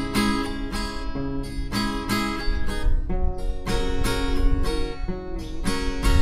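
Music: acoustic guitar strumming a steady run of chords.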